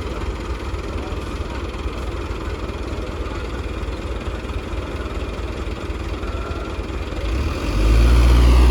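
Heavy diesel engine of earthmoving equipment running steadily, its low rumble growing much louder near the end.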